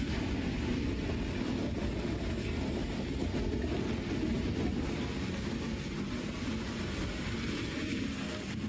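Steady low rumbling rush of a mudslide, mud and debris flowing, with no clear separate impacts.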